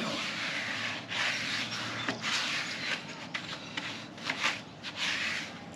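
A stiff brush scrubbing a bare aluminum motorcycle wheel wet with wheel-and-tire cleaner, in repeated rubbing strokes about a second each.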